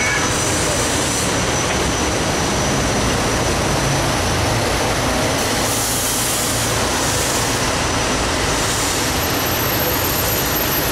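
Train passing close by: a steady, loud rush of wheel and rail noise that holds even throughout.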